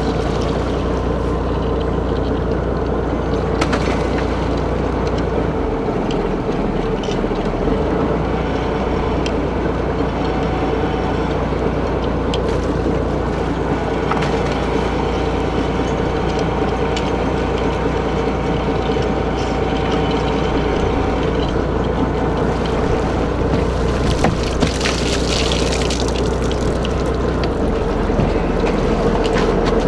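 Fishing boat's engine and deck machinery running steadily: a constant drone with a held hum.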